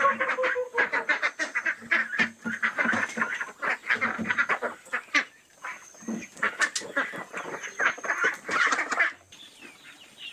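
A flock of farm waterfowl calling in a dense, continuous chatter of short quacking calls, which thins out and goes quieter about nine seconds in.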